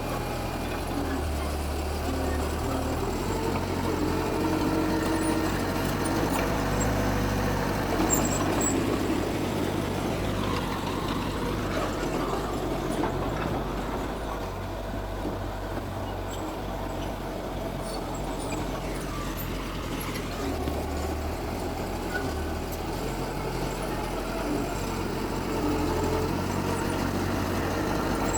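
Diesel engine of heavy earthmoving machinery running steadily, its low drone shifting in pitch and strength a few times as the load changes.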